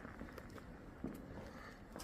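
Faint, scattered pops of distant fireworks, with a few sharp cracks about half a second in and again just after a second.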